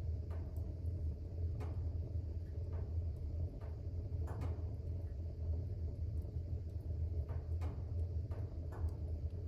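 Fire burning in a fireplace: a steady low rumble of flames with sharp crackles and pops every second or so.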